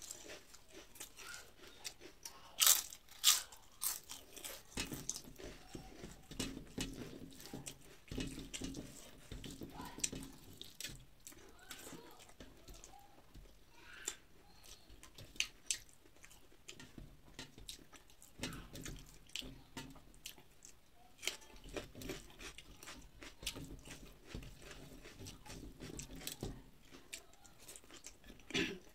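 Close eating sounds: a person chewing crisp fried food, with repeated sharp crunches and crackles, the loudest about three seconds in.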